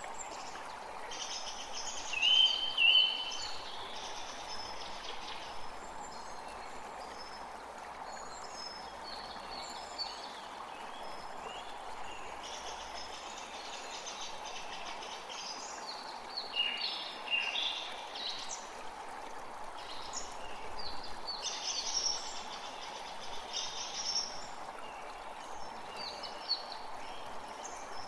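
A forest creek running with a steady rush of water, while several songbirds call and sing over it in short chirps and phrases. The birds are loudest about two seconds in and again just past the halfway mark.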